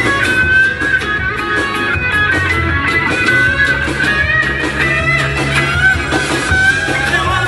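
Live reggae band playing an instrumental passage: a steady bass line and guitar, with a lead melody line wavering on top.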